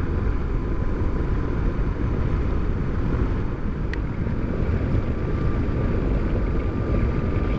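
Motorcycle ride noise at a steady road speed: wind rushing over the microphone and the engine running underneath in an even, unbroken rumble, with a faint steady whine and one short click about four seconds in.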